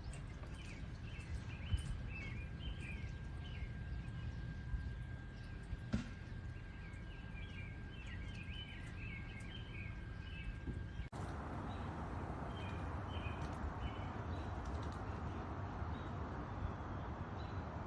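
Small birds chirping in quick bursts over a steady low rumble, with a faint steady high tone under them. About eleven seconds in, the sound cuts to an even, steady hiss.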